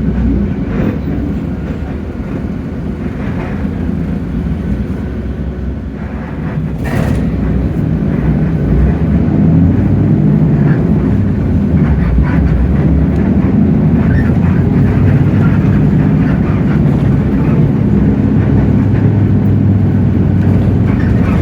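Inside a city bus: the Hino J08E-VN 7.7-litre inline-six diesel and road noise make a steady low drone. It runs somewhat quieter for the first few seconds, then grows louder as the bus pulls harder from about seven seconds in, with a sharp click near that point.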